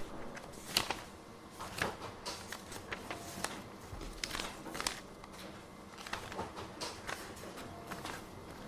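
Office ambience: irregular small clicks and light taps, one or two a second, over a faint steady background.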